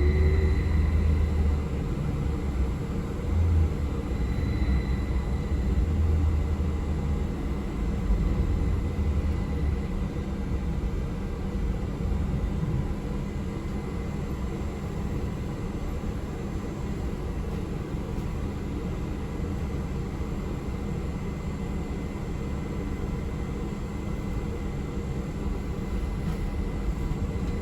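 Steady low rumble of a moving city passenger vehicle heard from inside its cabin, with a faint steady hum over it. It is louder and more uneven in the first ten seconds or so, then settles to an even drone.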